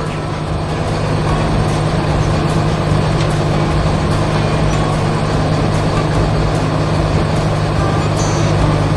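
Heavy construction machine's diesel engine running steadily, a deep continuous rumble.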